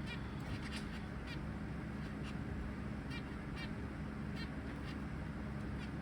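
Zebra finches calling: short, nasal, beep-like calls, about ten of them at irregular intervals, over a steady low hum.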